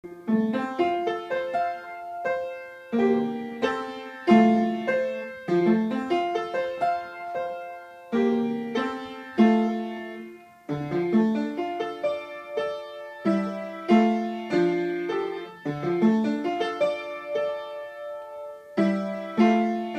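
Solo piano music: a melody of struck notes that each fade after they are played, in short phrases with brief pauses between them.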